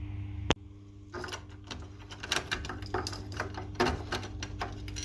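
Quick irregular clicks and knocks of parts being handled and fitted on a washing machine's drive assembly during a repair, with one sharp click about half a second in, over a steady low hum.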